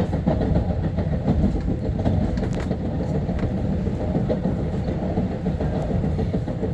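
Long Island Rail Road M3 electric multiple-unit train running between stations, heard from on board: a steady low rumble of wheels on rail with a few scattered sharp clicks.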